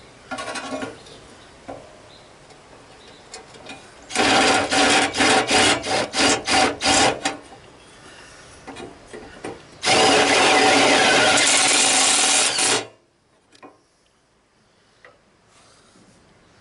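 Power drill run on the trigger: a short burst, then a string of about ten quick on-off pulses, then one steady run of about three seconds that stops abruptly.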